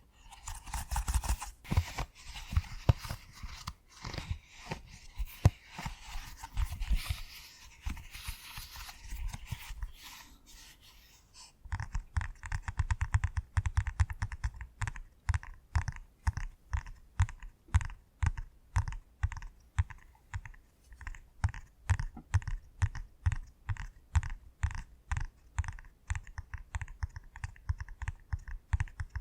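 Silicone push-pop fidget toy being pressed. For the first ten seconds or so it gives a dense crackling with scattered pops. After a brief pause, about twelve seconds in, comes a steady run of soft popping clicks, each with a low thump, about three a second.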